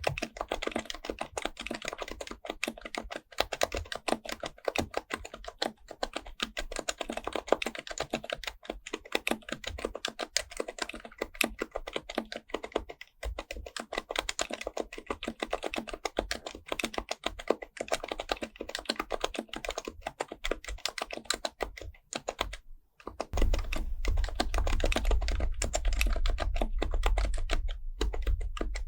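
Fast, continuous typing on an HHKB Pro Type-S keyboard, its Topre keys giving dense, muted strokes with a brief pause about three quarters of the way through. After the pause a low rumble sits under the typing.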